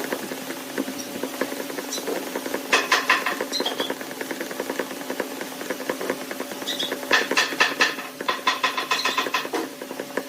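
Lathe running with a steady motor hum, broken by bursts of rapid clattering as the spinning workpiece is worked.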